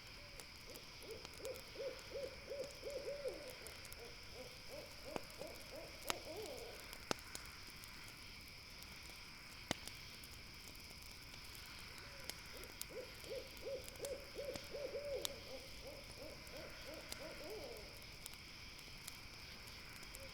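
An owl calling twice, each call a rapid run of short, low hoots lasting about four seconds. Behind it a steady high insect hum, and a few sharp pops from a crackling campfire.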